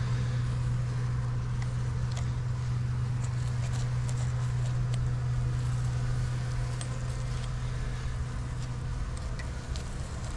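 Steady low hum of honey bees around an open hive, with a few faint clicks from the comb and frame being handled.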